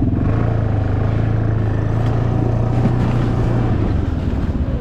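Snowmobile engine running with a strong, steady low hum. About four seconds in, the steady tone drops away into an even, fast pulsing as the engine speed changes.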